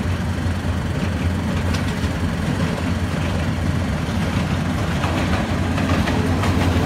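Diesel locomotive hauling a passenger train past, a steady low engine rumble with the noise of wheels on the rails and a few faint clacks, getting slightly louder near the end.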